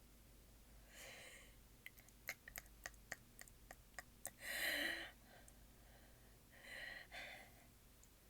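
A person breathing close to the microphone, three short breaths or sniffs with the middle one loudest, with a run of about a dozen faint clicks between the first two.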